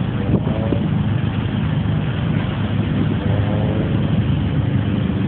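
Car engines running steadily in a low, continuous rumble, with faint snatches of voices.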